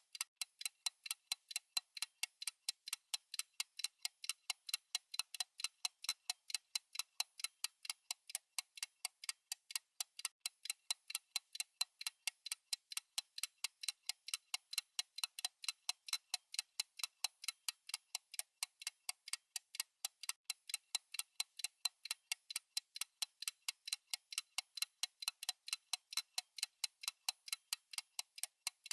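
Countdown timer's clock-tick sound effect ticking fast and evenly, about four sharp ticks a second.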